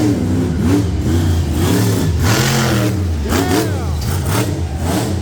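Monster truck engine revving hard, its pitch rising and falling again and again as the throttle is worked on and off.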